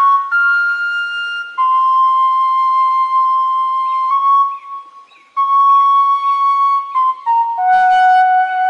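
Background music: a slow flute melody of long held notes, breaking off briefly about five seconds in.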